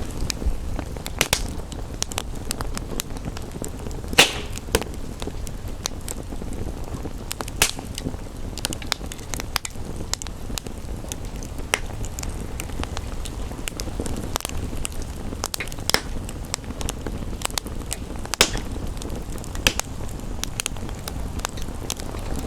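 Wood fire crackling, with irregular sharp pops and snaps, the loudest about four seconds in, over a steady low rumbling background.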